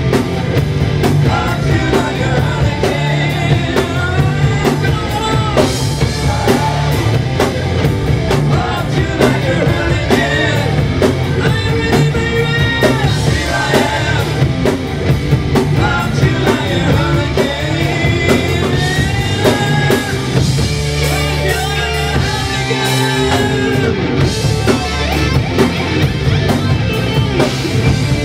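A rock band playing live and loud: drum kit, electric guitars and bass, with a lead singer's voice.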